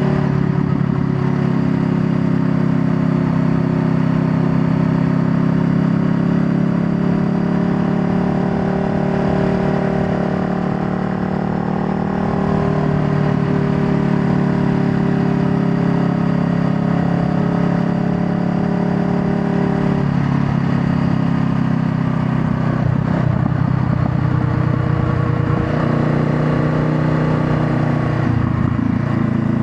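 Honda Rebel 500's parallel-twin engine running under way while riding. Its note holds fairly steady, then breaks and settles at a different pitch about two-thirds of the way through.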